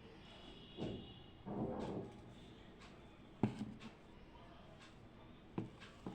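Small handling noises of someone working at a desk: a couple of brief rustles early on, then two sharp knocks, one mid-way and one near the end.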